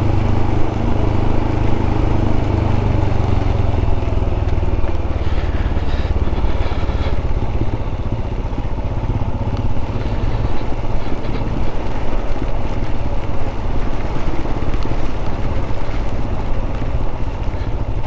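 Royal Enfield single-cylinder motorcycle engine running in a low gear on a steep descent, under loud rushing wind and rain noise; the engine's steady hum fades under the rushing noise about four seconds in.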